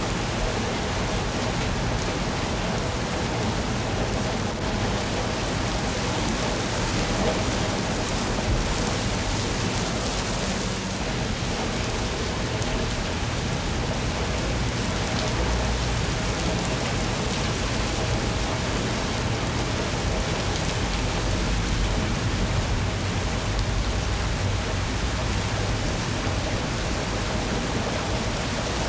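Steady rain falling: an even, unbroken hiss with a low rumble beneath it.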